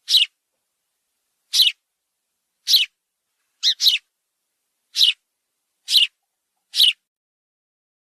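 Sparrow chirping: separate short chirps about once every second, one of them a quick double chirp near the middle, with silence between.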